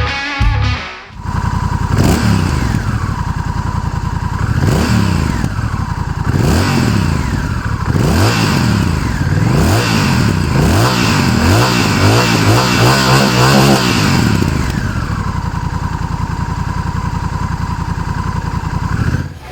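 Honda CMX1100 Rebel's parallel-twin engine, breathing through an aftermarket GPR exhaust, idling and then blipped repeatedly on the throttle. The blips come quicker toward the end, and the engine then settles back to a steady idle.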